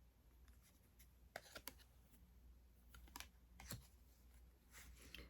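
Faint, scattered clicks and ticks of baseball trading cards being handled and set down on a table.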